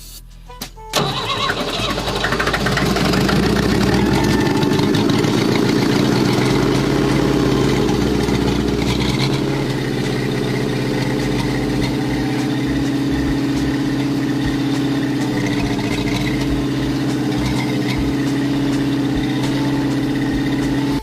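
Old bulldozer engine starting about a second in, then running steadily.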